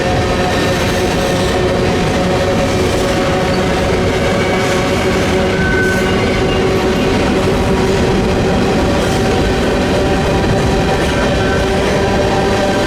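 Freight train rolling past at close range, a steady loud rumble of cars on the rails with a few steady ringing tones over it, and gusty wind on the microphone.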